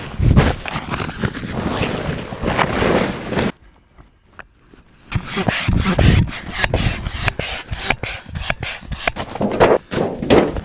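Rough scraping and rubbing with many quick strokes; it stops for about a second and a half, then resumes as a run of rapid scraping strokes.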